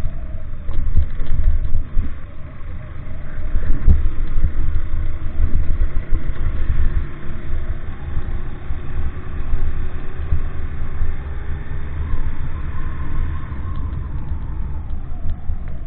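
A motor vehicle's engine running under a heavy, uneven low rumble, its pitch rising slowly through the middle, as it travels over a rough road.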